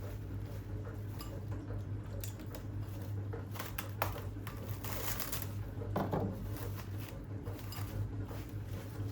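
Light household handling sounds over a steady low hum: scattered clicks, taps and rustles, a sharper knock about four seconds in, a brief hiss around five seconds and a dull thump about a second later.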